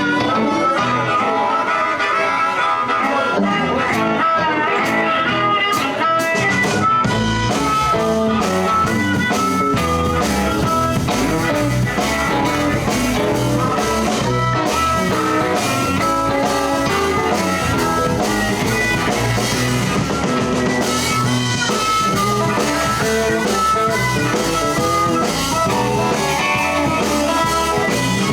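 Live blues band playing without vocals: electric guitar over drum kit and bass.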